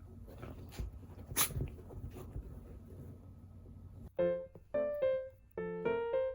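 Dogs shuffling and scuffling about, with a few knocks. About four seconds in, a piano tune starts in short phrases and drowns them out.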